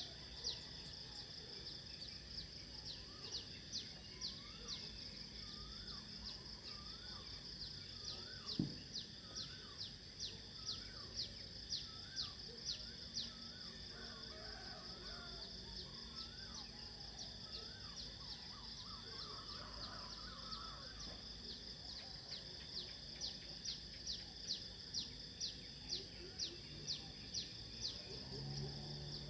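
Outdoor nature ambience: a steady high insect drone with a sharp chirp repeating about twice a second, and birds calling in short rising-and-falling notes through the first half. A single short knock about eight and a half seconds in.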